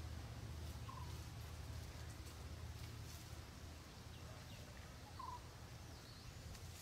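Quiet outdoor ambience: a low steady rumble with a few faint, short bird calls, one about a second in and another just after five seconds.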